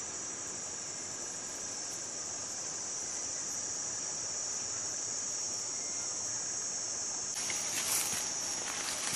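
Steady high-pitched chorus of insects, crickets or cicadas, droning without a break. About seven seconds in, a run of irregular crackling, rustling noises joins it.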